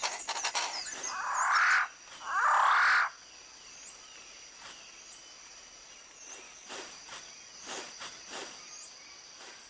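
Rainforest animal sounds: loud, harsh, noisy calls for the first three seconds, the last two as separate bursts, then a steady high insect whine with scattered short chirps and clicks.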